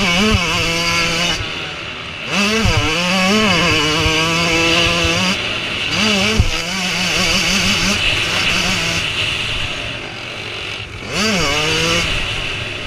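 Motocross bike engines revving hard, the pitch climbing and dropping again and again as the riders open the throttle and shift, in several separate surges.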